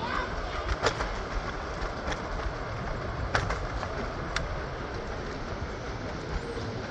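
PATH train running: a steady rumble with a few sharp clicks and knocks scattered through it.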